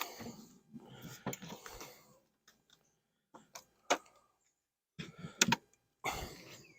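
Knocks, clicks and scraping of wooden beehive parts being handled as a hive is opened for a look inside, with several sharp knocks and short rustling stretches between them.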